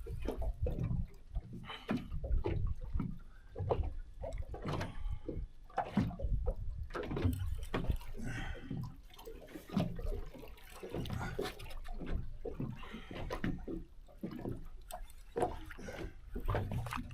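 Water sloshing and slapping against a small boat's hull, with irregular knocks and splashes.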